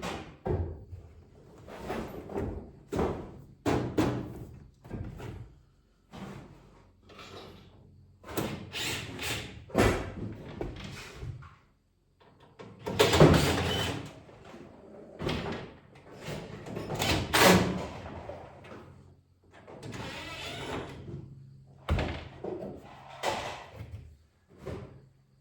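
Irregular knocks, thumps and scrapes from a microwave oven's sheet-metal casing being handled and shifted while it is being taken apart.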